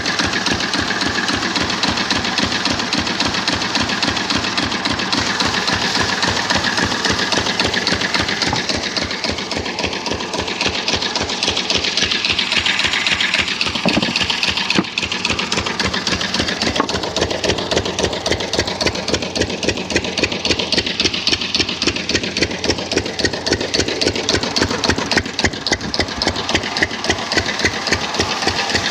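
An engine running at a steady idle, with an even pulsing beat.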